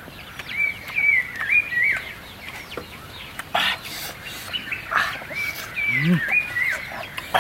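Birds calling in runs of short whistled notes, with one low rising-then-falling call a little after six seconds and a few brief rustling bursts.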